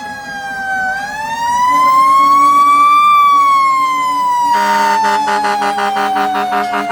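Fire truck siren winding up to a peak about three seconds in, then slowly winding down. About two-thirds of the way through, a second sound joins in with rapidly pulsing steady tones.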